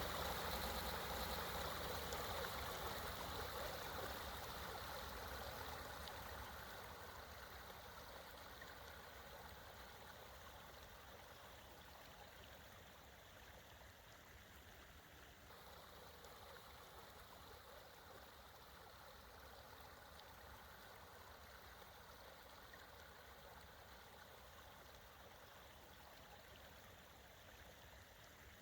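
Creek water flowing. It is louder at first and fades over the first dozen seconds to a faint, steady rush.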